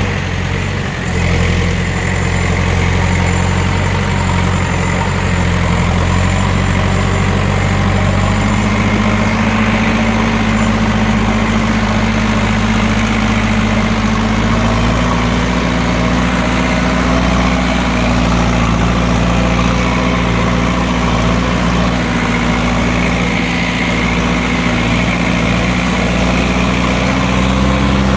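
Tractor engine running loud and steady, its pitch stepping up slightly about 8 seconds in and again about 15 seconds in.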